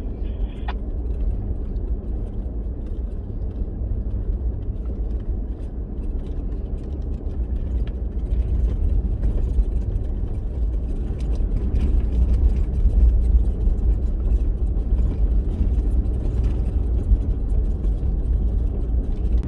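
Four-wheel-drive vehicle driving on a rough track: a steady low engine and tyre rumble with light rattles, getting louder about halfway through.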